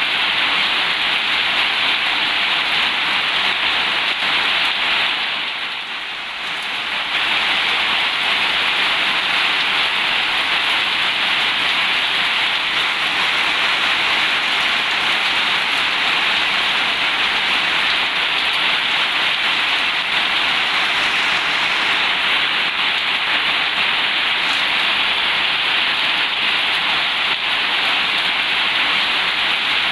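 Heavy rain falling on a corrugated zinc roof, a steady dense hiss that dips briefly about five seconds in and then returns to full strength.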